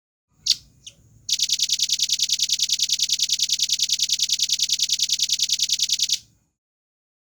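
Velvet-fronted nuthatch (red-billed nuthatch) calling: two sharp high notes, then a fast, even rattling trill of about ten notes a second held for roughly five seconds before it cuts off.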